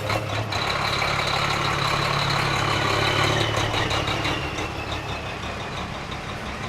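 Racing truck's heavy diesel engine running steadily at low revs, with a faint high whistle that slides slightly down in pitch around the middle; the sound eases off somewhat in the second half.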